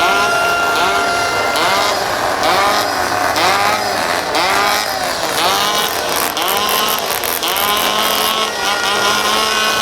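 Two-stroke chainsaws being revved over and over by spectators, engines blipping up and falling back about twice a second, several overlapping. A steady horn-like tone sounds through the first second or so and another comes in near the end.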